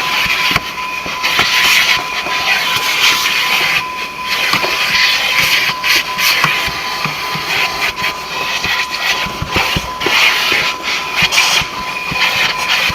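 Car wash vacuum hose running, a loud rushing suction with a steady high whine that swells and dips as the nozzle moves over the car's interior.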